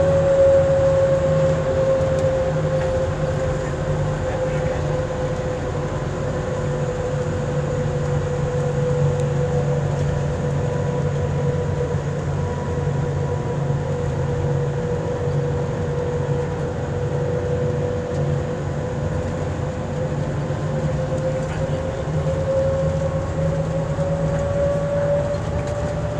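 Automated airport people-mover tram running between stations, heard from inside the car: a steady rumble under an electric motor whine that sinks slightly in pitch and rises again near the end.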